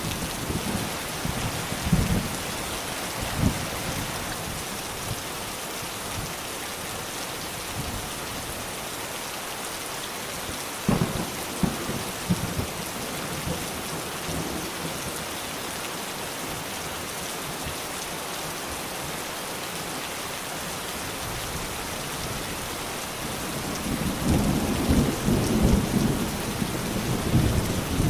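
Steady rain with a constant hiss and a few sharp low knocks. A deeper low rumble builds near the end.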